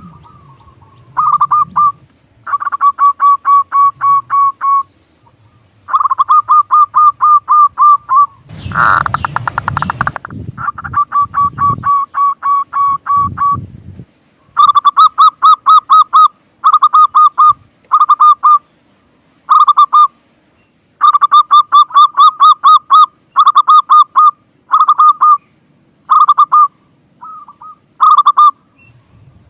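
Perkutut (zebra dove) cooing in repeated phrases of rapid, evenly spaced notes, each phrase lasting one to two seconds with short pauses between. A brief loud burst of noise comes about nine seconds in.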